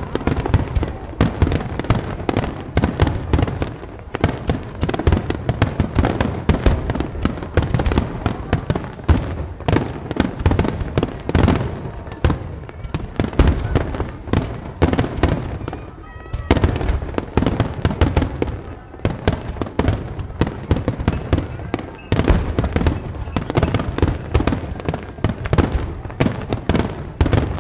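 Aerial fireworks finale barrage: shells bursting in rapid, overlapping succession, a continuous run of booms and crackles with no pause.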